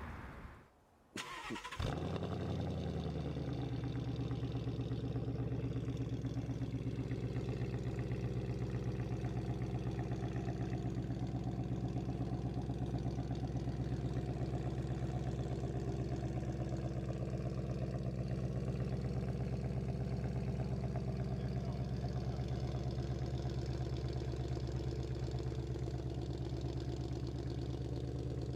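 2015 Mustang GT's 5.0-litre V8 starting through an MBRP 3-inch Street cat-back exhaust. It fires about a second in with a brief flare, then settles into a steady idle.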